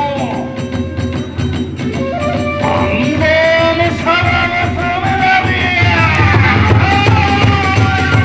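Kagura hayashi ensemble playing: a gliding bamboo flute (fue) melody over a steady big drum, with small drum and hand cymbals (tebyōshi).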